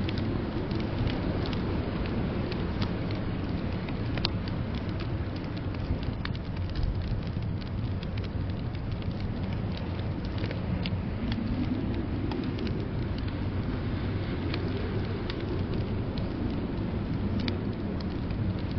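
Wood fire crackling in a fireplace with scattered sharp pops, over a steady low rush of blizzard wind that swells a few times.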